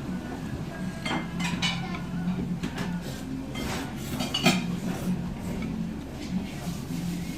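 Dishes and cutlery clinking and clattering, with a sharper clink about four and a half seconds in, over a steady low hum.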